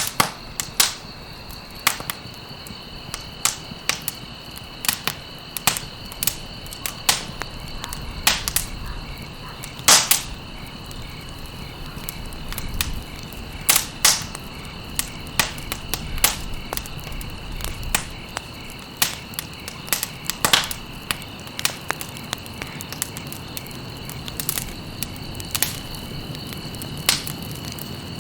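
Campfire burning, with irregular crackles and sharp pops several times a second and a few louder snaps, over a steady high-pitched tone.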